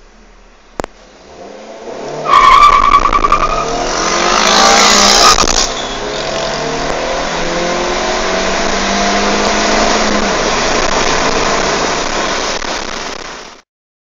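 Hyundai HB20's 1.6 16V four-cylinder engine, running on ethanol, accelerating hard from a standstill with a manual gearbox. The tyres squeal briefly at launch, and the revs climb, dropping at gear changes about five and a half and ten seconds in before rising again. The sound cuts off suddenly near the end.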